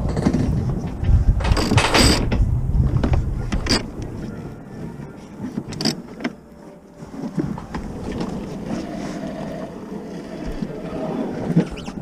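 Sailboat under way under sail: steady wind and water noise, with a few sharp knocks and clatters from gear aboard, the loudest burst a second or two in.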